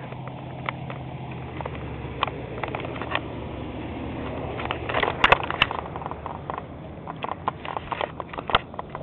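A car engine running with a steady low hum that fades after about four and a half seconds as the car pulls away, mixed with scattered clicks and knocks, loudest in a cluster about five seconds in.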